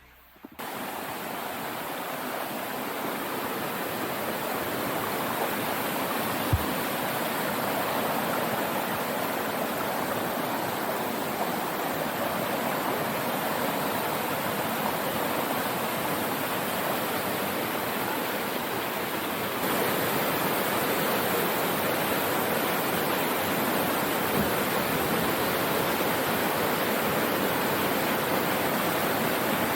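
Waterfall: a steady rush of falling and splashing water, a little louder from about two-thirds of the way through, with one brief low thump early on.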